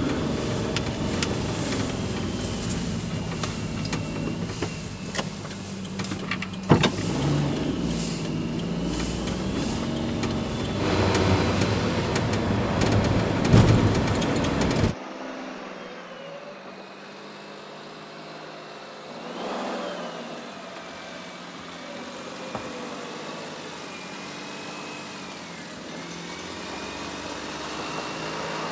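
Light truck on the move: engine and road noise, which drops abruptly to a much quieter steady hum about halfway through.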